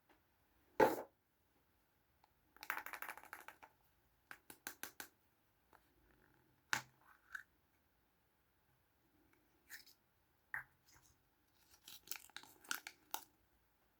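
Small plastic toys and their packaging handled close to the microphone: a knock about a second in, a rasping rustle around three seconds, then scattered quick clicks and taps.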